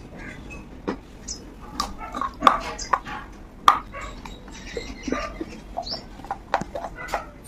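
Close-up crunching and chewing of a dry, crumbly chunk of food, with irregular sharp crunches; the loudest come about two and a half and three and a half seconds in.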